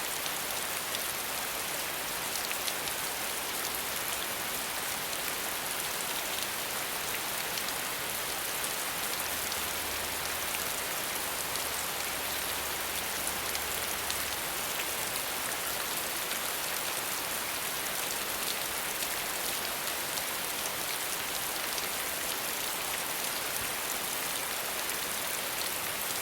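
Steady rain falling, an even hiss of rain with many small drops ticking through it.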